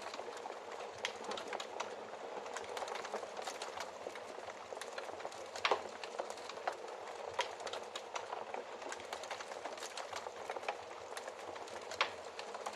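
Fireplace fire crackling: a steady hiss under many small irregular pops, with a louder pop about six seconds in and another near the end.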